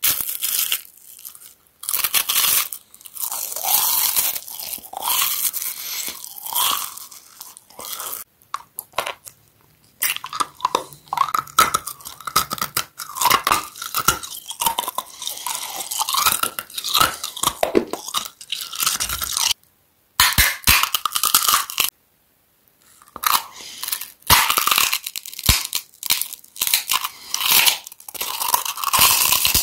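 Close-miked crunching and chewing of crisp foods: a wafer, then a hard lemon candy, then puffed garlic chips. The bites and chews come in dense crackly runs, broken by a few short silences.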